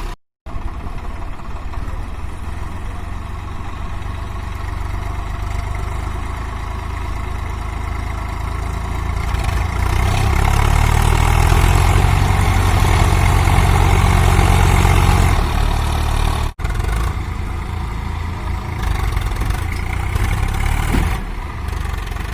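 Swaraj 855 FE tractor's diesel engine running, rising about nine seconds in to a loud, hard-working run for several seconds before easing back.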